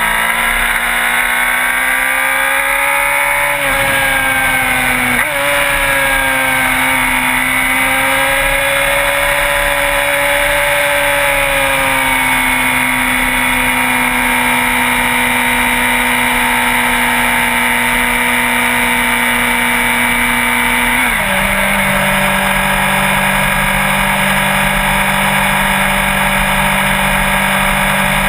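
Sport motorcycle engine running under way, its pitch rising and easing over the first several seconds, then holding steady at cruise. About two-thirds of the way through the pitch drops suddenly and holds at the lower note.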